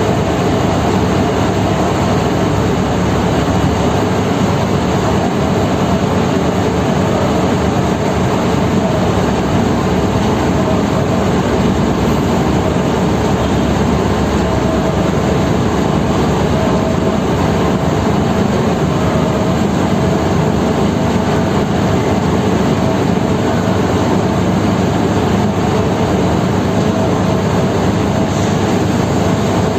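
Heavy diesel engines running at a steady, unchanging drone, loud and even throughout, with a few constant tones over a dense mechanical rumble.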